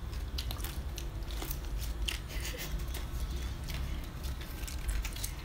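Eating sounds: chewing with scattered short wet mouth clicks, and fresh leaves crackling as a bite of rice noodles is folded into them, over a low steady hum.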